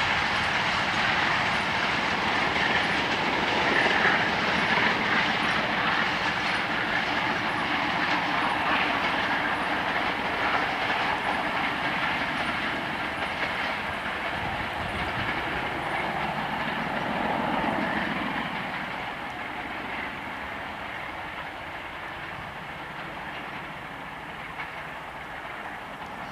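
Pakistan Railways passenger coaches rolling away on the track, wheels clattering over the rail joints. The sound slowly fades as the train recedes.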